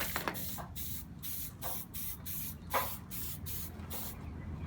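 Aerosol spray paint can hissing in short, repeated bursts, about two or three a second, laying on a thin first coat. The bursts stop shortly before the end.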